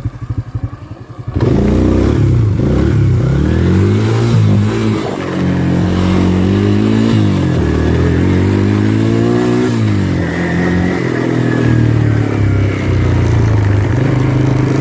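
Four-wheeler (ATV) engine, chugging at low revs, then throttled hard about a second and a half in; its pitch rises and falls several times as it pulls up the hill under load, then holds steady near the end.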